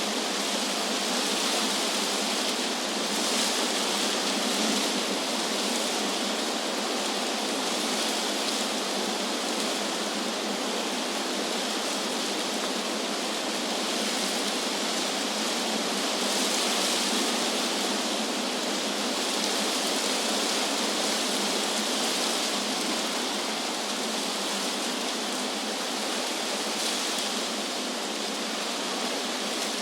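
Wind blowing through trees: a steady rushing hiss of leaves that swells and eases slowly, with no deep rumble beneath it.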